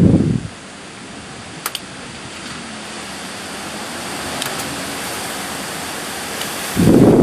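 Typhoon wind gusting against the microphone with a loud rumbling buffet that drops away about half a second in, leaving a steady rushing hiss with a couple of faint clicks, before another strong gust buffets the microphone near the end.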